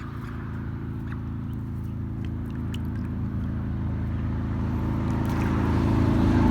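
Motorcycle engine approaching on the road, growing steadily louder.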